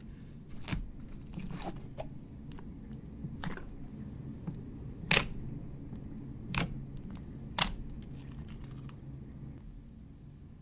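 Slime being squeezed and poked, giving a string of irregular sharp pops and clicks; the loudest pop comes about five seconds in, with two more strong ones soon after.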